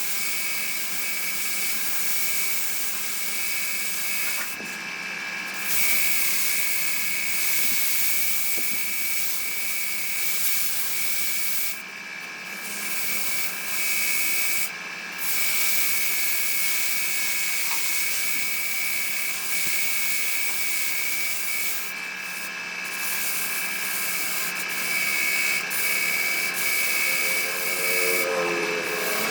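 Woodturning lathe running with a steady whine while a tool or abrasive works the spinning wood, giving a continuous hissing scrape that breaks off briefly a few times.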